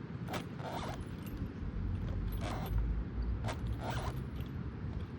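Playground swing creaking rhythmically as it swings back and forth, a squeak about once a second. Gusty wind buffets the microphone with a heavy low rumble.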